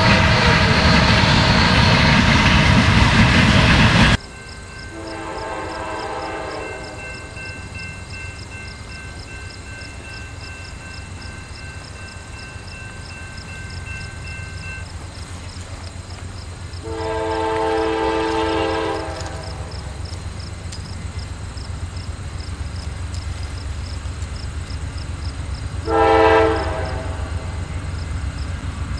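A double-stack intermodal freight train rolls past close by, its cars rumbling and clattering, until the sound cuts off suddenly about four seconds in. Then a distant approaching locomotive sounds its multi-chime air horn three times over a low rumble: two longer blasts and a short one near the end.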